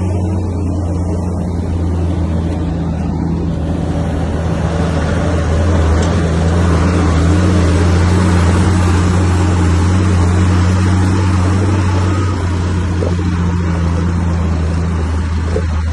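Heavy diesel engine of a bulldozer running steadily with a deep, even engine note, growing a little louder with added rushing noise through the middle as it works.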